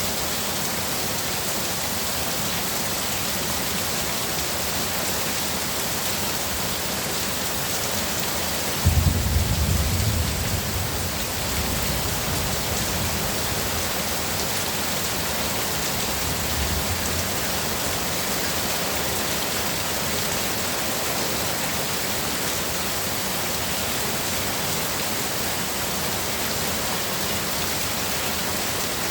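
Heavy rain pouring steadily. About nine seconds in, a sudden thunderclap rumbles low for a couple of seconds, and a fainter rumble of thunder follows a few seconds later.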